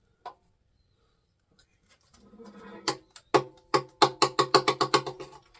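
A man laughing in quick, rhythmic bursts. It starts about three seconds in and speeds up to several bursts a second near the end.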